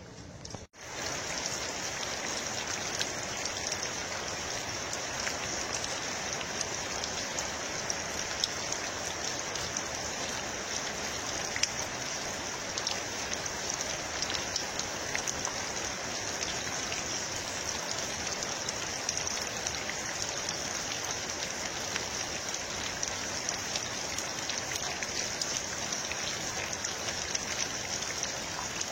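Steady rain: a constant hiss of falling water dotted with many small ticks of drops, starting abruptly about a second in.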